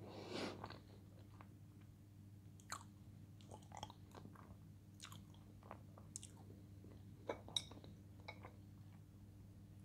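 A person chewing food with soft, faint mouth clicks and smacks scattered throughout. There is a short louder burst just at the start as food goes into the mouth. A faint steady low hum runs underneath.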